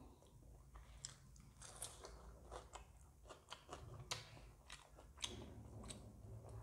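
Faint, close-miked chewing of a mouthful of noodles and momos, with irregular short crunchy clicks.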